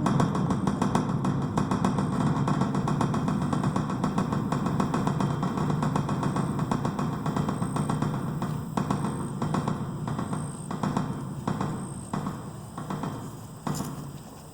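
Honeybees from an opened hive buzzing loudly and steadily close to the microphone, the hum easing off over the last few seconds, with a few knocks from handling the hive and the phone in the second half.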